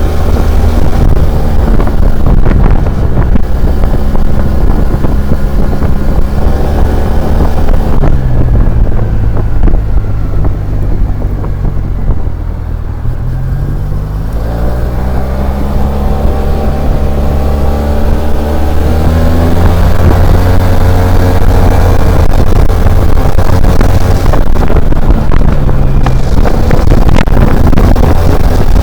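SYM Maxsym TL 500's 465 cc twin-cylinder four-stroke engine pulling the scooter along, with wind on the microphone. The engine note holds steady, falls as the scooter slows for a few seconds near the middle, then climbs again as it accelerates and settles.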